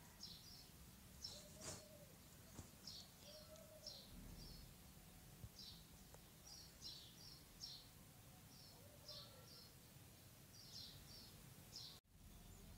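Faint small birds chirping in quick clusters of high notes, repeating every half second or so, with a lower arched call recurring every couple of seconds over a steady low background hum. The sound drops out for an instant near the end.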